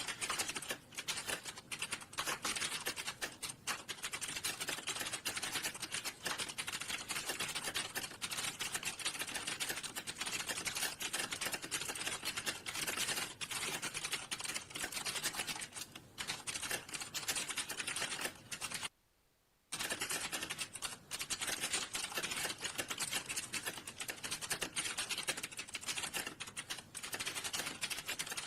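Fast, continuous typing on a computer keyboard, the keys clattering many times a second, with one short break about two-thirds of the way in.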